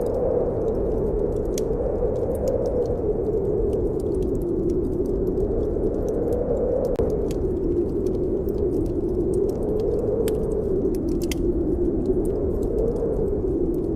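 Snowstorm wind blowing steadily, its pitch slowly rising and falling, over a wood fire crackling with scattered sharp pops.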